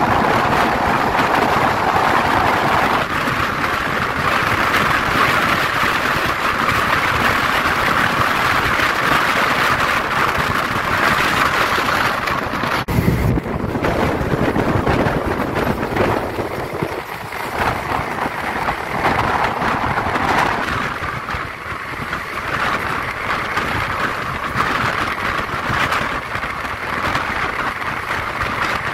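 Steady rushing noise of a passenger train running at speed, wheels on rails and air rushing past. The sound shifts suddenly about halfway through, the hiss turning duller for a while.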